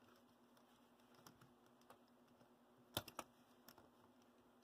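Near silence with a faint steady hum, broken by a few light clicks about three seconds in: small model-locomotive drive parts being handled as the U-joints come off.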